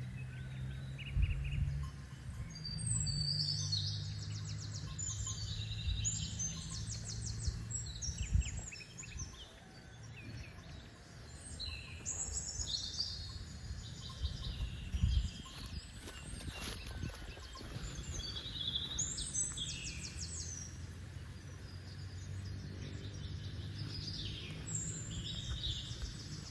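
Wild birds singing outdoors in repeated rapid high trills and chirps, phrase after phrase, over a low steady hum.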